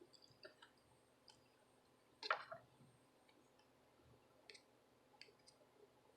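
Faint, scattered clicks and light taps of small hand tools working a charging port on a circuit board, with one louder click about two seconds in; otherwise near silence.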